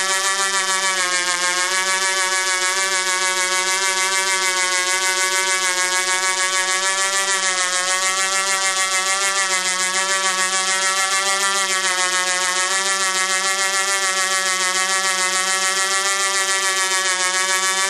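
Engine of a Du-Bro Whirlybird 505 radio-controlled helicopter running at a steady high speed: a loud, buzzy drone whose pitch rises and falls slightly.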